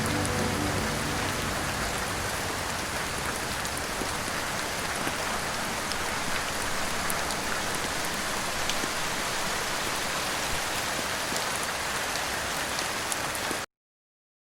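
Steady rain: an even hiss with scattered drop ticks, with the last notes of soft music fading out in the first second or so. The sound cuts off suddenly near the end.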